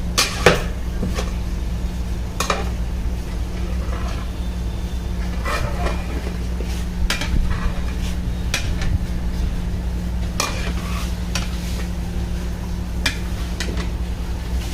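Metal utensils scrape and knock against a large cooking pot of biryani, about ten irregular clinks and scrapes, over a steady low hum.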